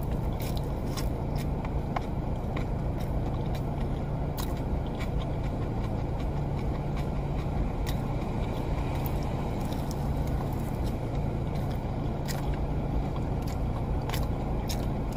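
Crunchy bites and chewing of a fried Korean corn dog, scattered crisp crackles over the steady low hum of a car idling.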